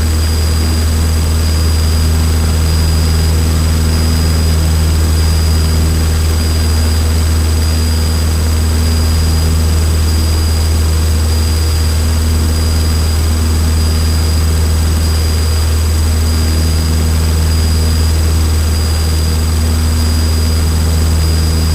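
Cessna 152's four-cylinder Lycoming engine and propeller running steadily at climb power, heard from inside the cabin as a constant low drone. A few thin, steady high-pitched whines sit over it.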